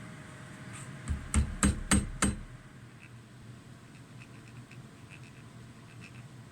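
Four quick hammer blows in a row, about a second in, then faint light clicks of small parts being handled.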